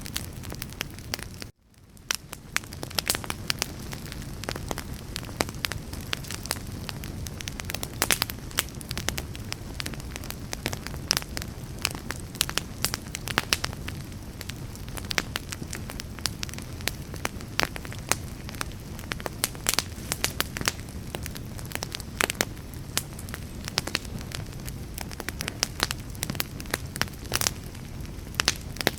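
A fire burning, with frequent sharp crackles and pops over a low, steady rumble. About a second and a half in, the sound drops out briefly and fades back in.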